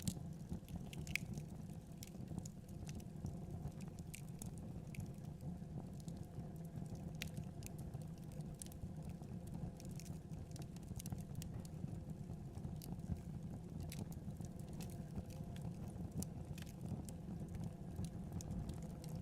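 Wood fire burning in a fireplace, crackling with irregular small pops and snaps over a steady low rumble.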